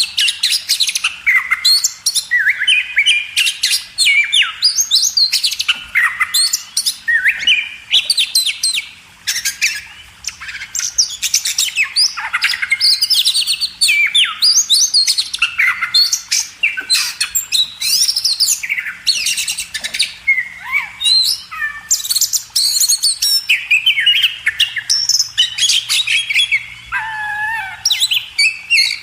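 Oriental magpie-robin (kacer) singing a long, varied song with almost no pause: quick runs of whistled notes, sliding phrases and sharp clicking chatter.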